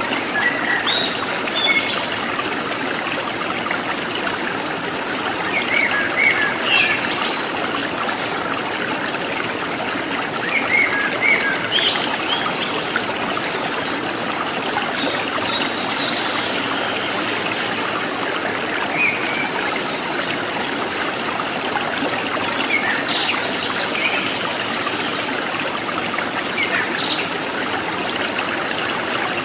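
Steady trickling and babbling of a forest stream, with scattered short chirps of wild birds calling over it every few seconds.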